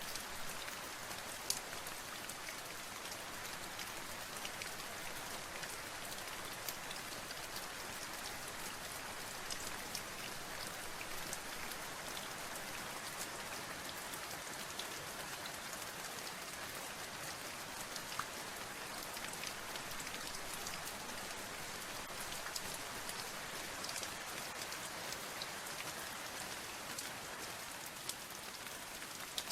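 Steady rain falling on a surface, an even hiss with many scattered sharp drop ticks.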